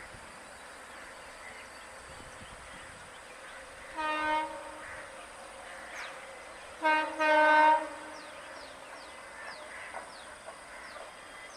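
WAG-9H electric locomotive's horn sounding three blasts: a short one about four seconds in, then a quick one followed at once by a longer one near the seven-second mark.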